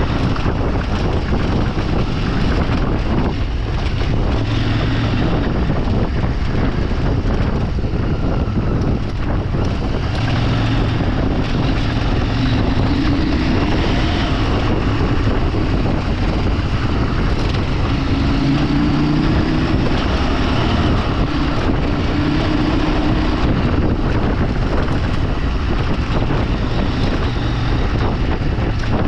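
A vehicle engine running under way, with heavy wind noise buffeting the microphone. The engine pitch rises and falls a few times in the middle of the stretch.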